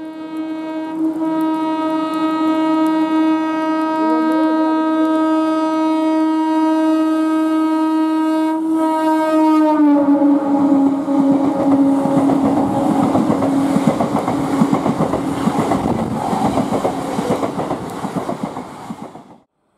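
Train horn held in one long continuous blast, dropping in pitch about ten seconds in as the train passes close by, then the loud rush and wheel clatter of the train running through at speed.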